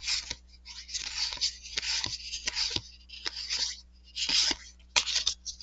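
Trading cards and their pack wrapper being handled: a string of short crinkling rustles and scrapes, paper and card sliding against each other.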